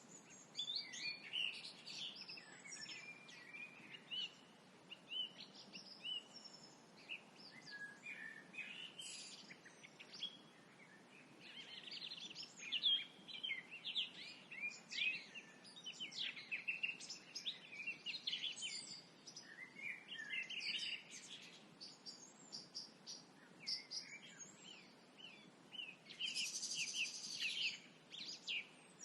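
Several small birds singing and chirping at dusk, overlapping short calls and trills all the way through, with a faint steady background hiss.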